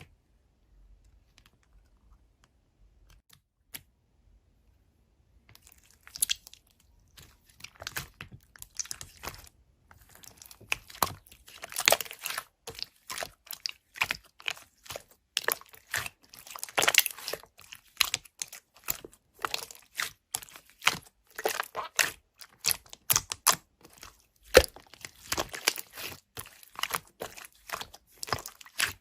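Close-up crinkling and tearing, a dense run of sharp crackles and rustles that starts about five seconds in after near silence.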